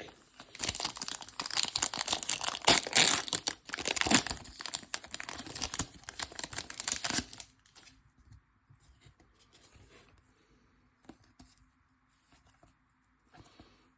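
A trading-card pack's wrapper being torn open and crinkled for about seven seconds, then only faint small clicks and rustles as the cards are handled.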